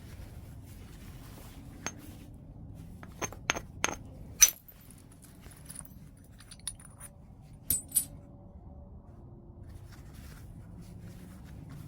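White chert being knapped: sharp, glassy clicks of blows on the stone, about seven in all, scattered and irregular. The loudest comes about halfway through, and two come close together near the end.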